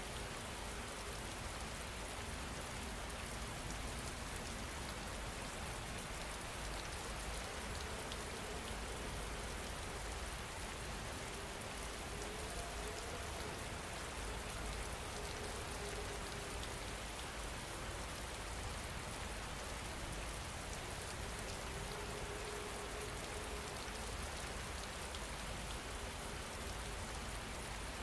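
Steady rain falling, an even patter of drops on a surface that holds at the same level throughout. A faint low hum rises and fades twice in the middle.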